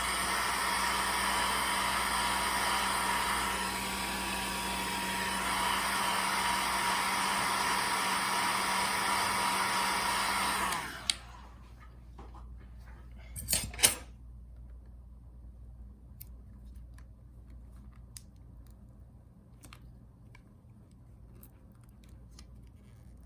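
Hot-air blower running steadily with a constant hum and whine, switched off about eleven seconds in, as used to soften adhesive on a laptop's glued parts. A few sharp clicks follow, then faint small ticks of handling.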